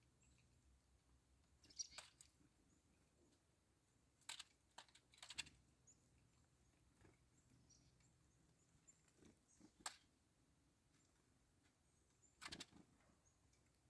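Black-capped chickadees at a bird feeder, heard faintly: a few sharp taps and clicks, several in quick succession about four to five seconds in, with soft high chirps between them.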